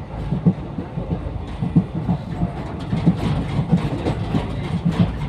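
A train running along the track, its wheels clattering over the rails with uneven low knocks.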